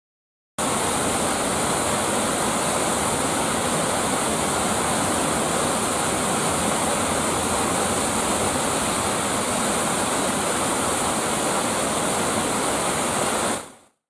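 Waterfall with water falling and splashing in a steady, even rush, starting abruptly and fading out near the end.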